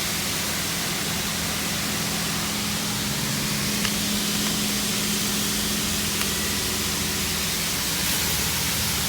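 Steady hiss of high-pressure water spray from a touch-free automatic car wash, under a low steady hum, with one faint click about four seconds in.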